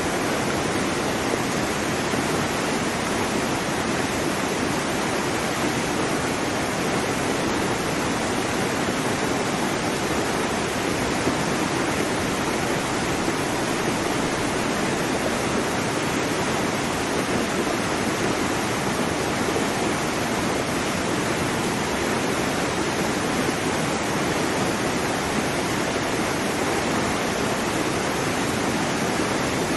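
Waterfall: a steady, dense rush of falling water with no change in level.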